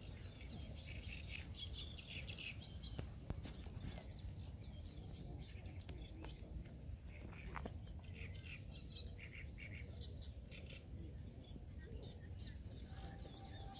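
Several small birds chirping and trilling on and off throughout, with short high calls overlapping, over a steady low rumble in the background.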